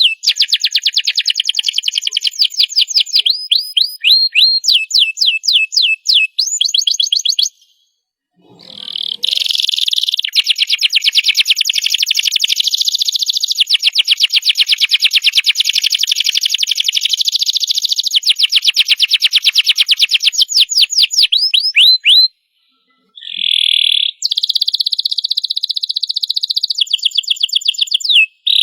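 Domestic canary singing a long song made of rapid trills: runs of fast repeated high notes that change pitch and speed from one phrase to the next. The song stops briefly twice, about a quarter of the way in and again about three quarters through.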